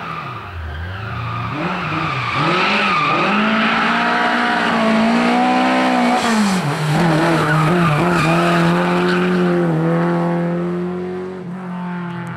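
Lada rally car's four-cylinder engine revving hard through a corner: the revs swing up and down with the throttle for the first half, then hold high and steady before dropping near the end. The sound grows louder over the first two seconds as the car approaches.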